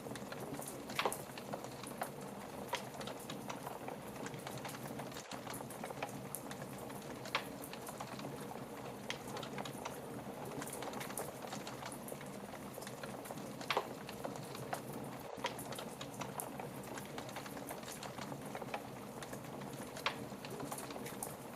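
Wood fire crackling in a fireplace: a steady hiss with frequent small pops and a few louder snaps spread through.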